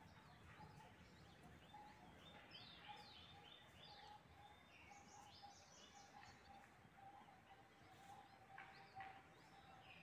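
Faint birds chirping: a run of quick, downward-sliding calls a few seconds in and a few more near the end, over a faint steady tone.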